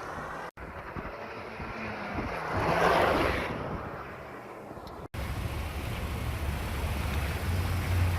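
Mazda 6 MPS 2.3-litre turbocharged engine and road noise in short clips, broken off abruptly about half a second and five seconds in. In the middle a rush swells to a peak and fades, as the car goes by or accelerates. The last part is a steady low engine drone.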